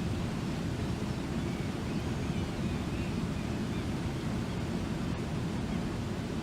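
Waterfall rushing steadily, a constant deep roar of falling water.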